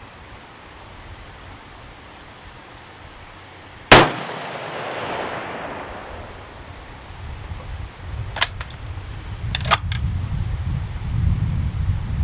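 A single shot from a 6.5 Creedmoor rifle about four seconds in, its report echoing and dying away over about two seconds. Several seconds later come a few sharp metallic clicks of the bolt being worked, over low handling noise.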